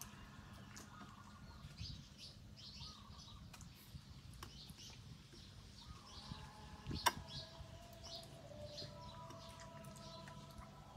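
Birds chirping repeatedly in short high calls, with a single sharp click about seven seconds in.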